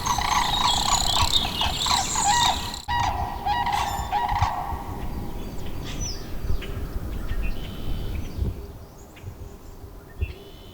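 Many birds calling loudly together, with a sudden break about three seconds in. The calls thin to scattered fainter chirps over the last few seconds.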